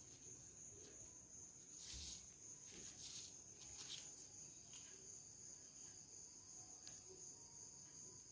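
Faint, steady high-pitched trill of a cricket chirring at night, with a few soft rustles and taps about two to four seconds in.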